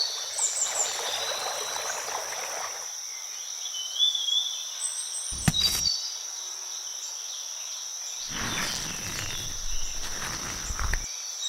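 Rural outdoor ambience: a steady high-pitched insect chorus like crickets, with a few short bird chirps. There is a sharp click about five and a half seconds in, and low rustling noise near the start and again in the last few seconds.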